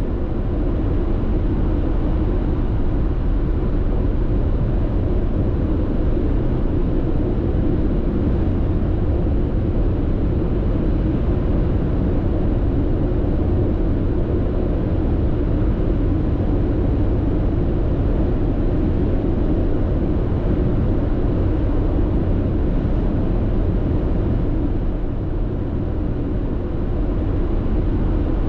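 Steady road and tyre noise inside a car's cabin at expressway cruising speed: a deep, even rumble with a slight easing near the end.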